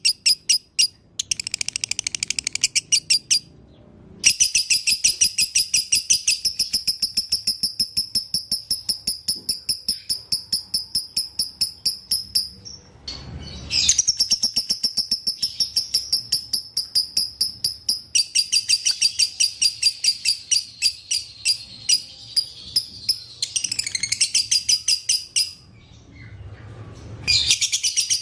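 Lovebird giving its long, rapid chattering trill (the 'ngekek' song), high chirps repeated about four to five a second in runs several seconds long, broken by a few short pauses.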